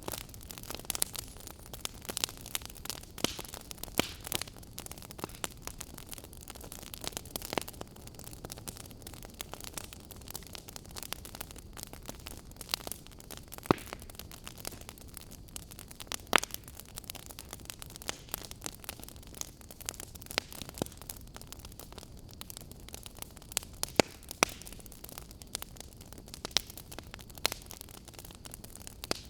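Fire crackling: irregular sharp pops and snaps, a few of them louder, over a steady hiss.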